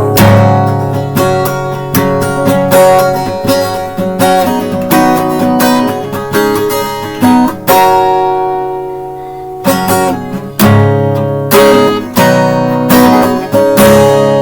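Acoustic guitar strummed and picked, chords ringing out between strokes, with a longer held chord near the middle.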